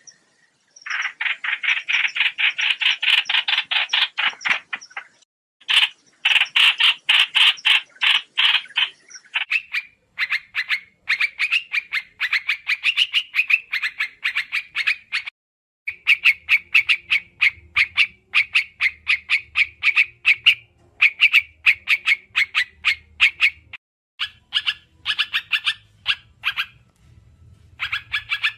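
Recorded lure calls of the bird known in Vietnam as trao trảo: bouts of fast, chattering notes, about eight to ten a second, each bout lasting a few seconds with short breaks between.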